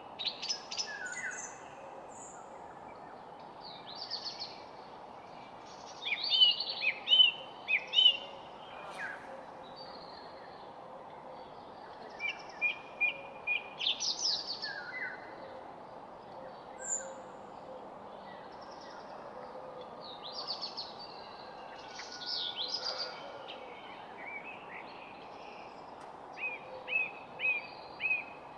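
Wild birds chirping and singing in short, varied phrases, several voices overlapping, over a steady background hiss. The busiest bursts of song come about six seconds in, around the middle, and near the end.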